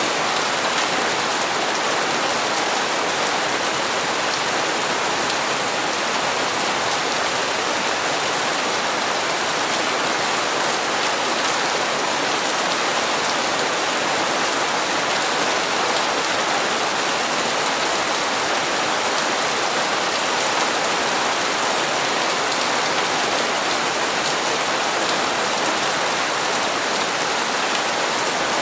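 Steady rain falling and pattering on surfaces, an even hiss without pauses or single loud drops.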